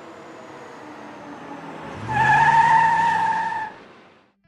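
A car's tyres screech loudly for about a second and a half, about two seconds in, over a low rumble, then fade away. Before it, a rising noise like a car coming closer.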